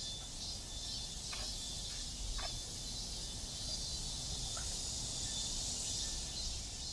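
Summer insects chorusing in a steady, high-pitched buzz.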